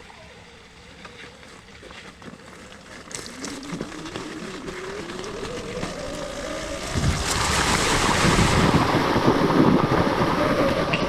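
Electric off-road motorcycle's motor whine rising as it speeds up, then loud water splashing and rushing from about 7 s in as the bike rides through the river.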